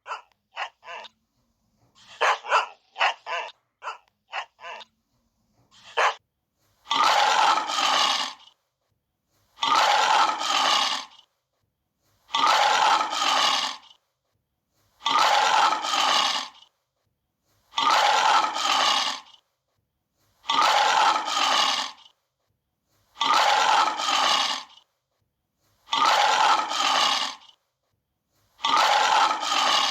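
A dog barking in short runs of barks for the first few seconds. After that, a tiger roaring about every three seconds, nine even roars of the same length, which sounds like one roar repeated.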